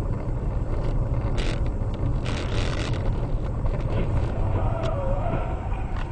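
A car driving, heard as a steady low rumble of engine and road noise, with a few faint knocks in the first half.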